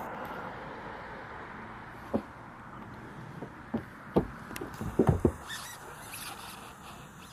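A few soft knocks and taps, several bunched together about five seconds in, over a faint, slowly fading rumble.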